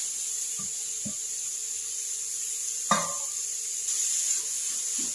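Grated carrots frying in ghee in a metal kadhai: a steady sizzle, with a few knocks of the plate and spoon against the pan, the sharpest about three seconds in. The spoon starts stirring the carrots near the end.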